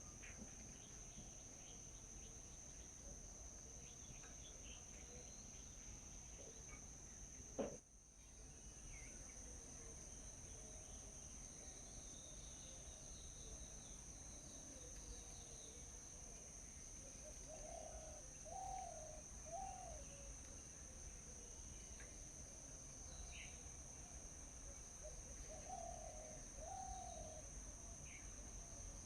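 Steady high-pitched insect drone with scattered bird calls: short high chirps, and twice in the second half a run of lower arched calls. A single sharp click about eight seconds in.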